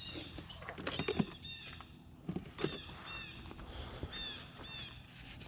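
A bird chirping over and over, short arched calls every half second or so, with a few light clicks and rustles of a wallet being handled.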